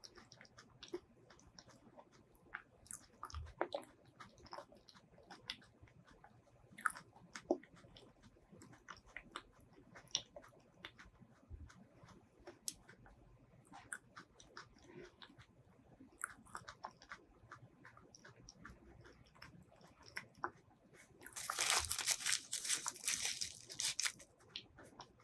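Close-miked mouth sounds of chewing soft durian flesh: scattered small wet clicks and smacks. Near the end, a loud rustle lasting about two and a half seconds as the paper wrapped around the durian is handled.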